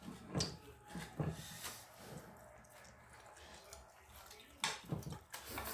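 Wet mouth sounds of someone eating: a few short, soft chewing and lip-smacking noises at the start and a few more near the end.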